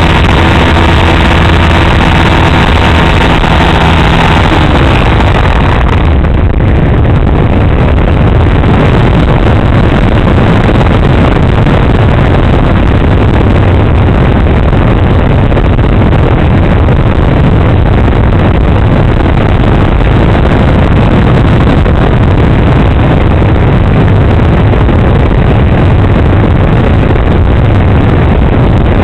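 Onboard audio from a camera on a flying RC model plane: the motor and propeller run with a steady pitched hum for the first few seconds, then from about six seconds in a loud, rough rush of wind and motor noise buffets the small camera microphone.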